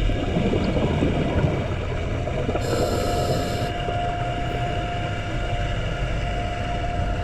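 Underwater sound of a scuba diver's regulator breathing and exhaled bubbles: a steady rumble with a thin constant tone, and a short hiss about three seconds in.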